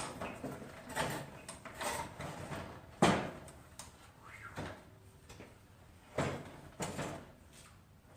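Metal clunks and scrapes as a heavy replacement engine is set into a garden tractor's engine bay for a test fit. A handful of separate knocks, the loudest about three seconds in and two more near six and seven seconds.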